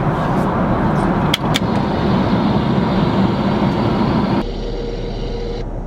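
Steady roar of an airliner's cabin noise in flight, with two quick clicks about one and a half seconds in. A little past the middle the noise changes abruptly to a duller tone with a faint steady hum.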